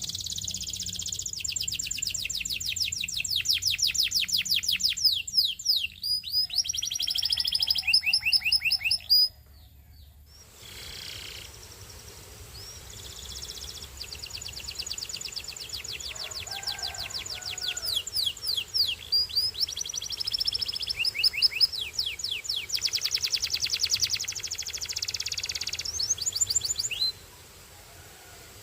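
A canary singing long rapid trills of fast repeated notes, changing between rolls and higher sweeping notes. The song breaks off briefly about a third of the way in, then starts again and stops shortly before the end.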